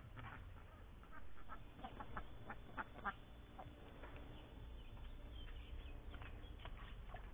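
Indian Runner ducks quacking in a quick series of short calls, thinning out after about three seconds, with a few more near the end.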